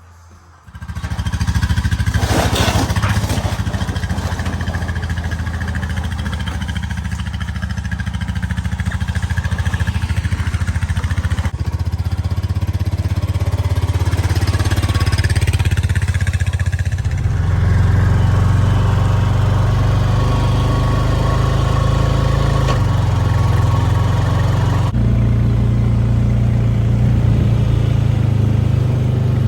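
An engine running steadily, coming in abruptly about a second in, its pitch shifting a few times along the way.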